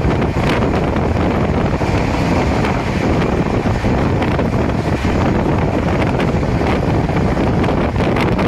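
Steady rumble of a moving passenger train with wind buffeting the microphone.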